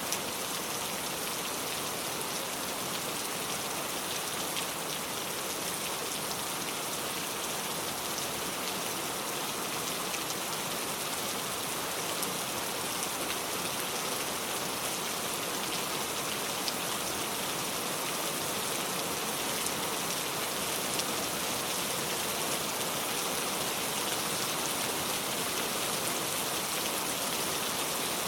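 Steady rain falling on a car, a dense even patter of drops with fine scattered taps.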